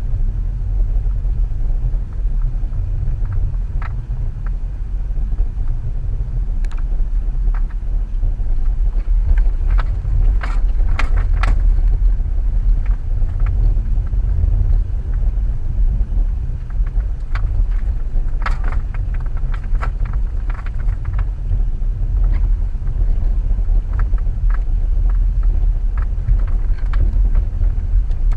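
2014 Subaru XV Crosstrek driving through snow: a steady low rumble. Scattered sharp knocks and clicks sound over it, bunched about ten seconds in and again near eighteen seconds.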